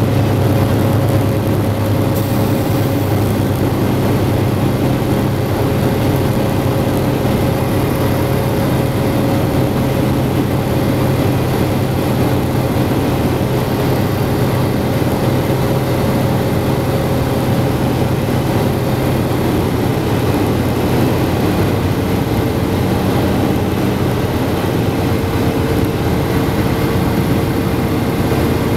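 Antonov An-2 biplane's nine-cylinder radial engine running steadily, a dense, loud drone; its pitch shifts slightly about twenty seconds in.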